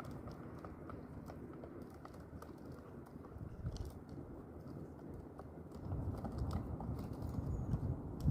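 Pigeons pecking at food on the ground: a dense run of small taps and scuffles, a little louder toward the end.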